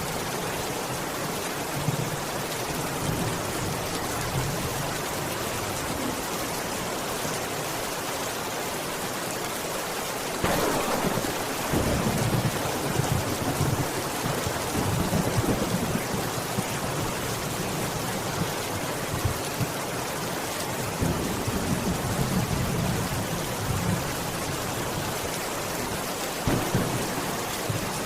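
Steady rain hissing, with a sudden thunderclap about ten seconds in that rolls on as rumbling thunder for several seconds, and more thunder rumbling later.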